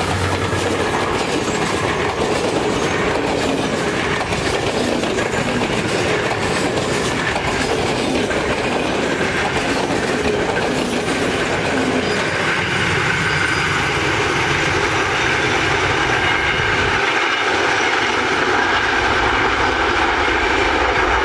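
Passenger train coaches rolling past close by: a steady rush of wheel and rail noise with the clickety-clack of wheels over the rail joints.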